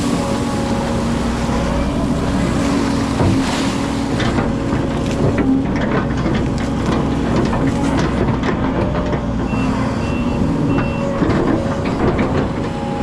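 Hydraulic excavator working: its diesel engine runs steadily under load, with scattered knocks and clatter as it works, and three short high beeps from a warning beeper about ten seconds in.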